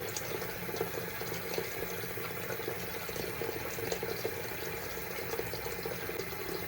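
Tap running steadily into a sink: hot water being run for washing the face with a towel.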